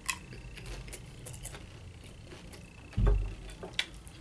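Close-up chewing of a mouthful of nachos made with Doritos chips, a run of small crunching clicks and crackles. A dull thump about three seconds in is the loudest sound.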